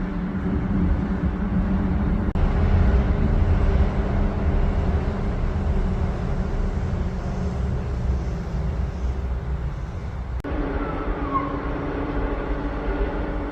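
Wind buffeting the microphone in a low, uneven rumble, over a steady low hum. The sound changes abruptly twice, about two seconds in and again near ten seconds.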